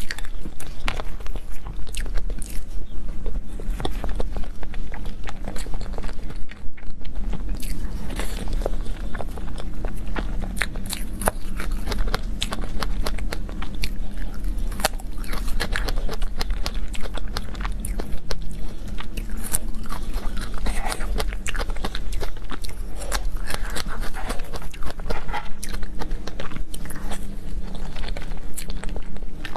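A person biting and chewing dessert close to the microphone, with dense, irregular crunching and small crackling clicks throughout.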